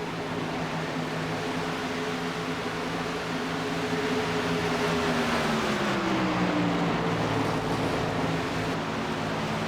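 Truck engines running, with one engine's note sliding down in pitch about six seconds in over a steady wash of engine noise.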